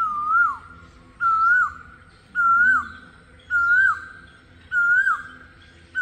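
A bird calling loudly: one short whistled note that rises and then drops sharply, repeated over and over about once a second.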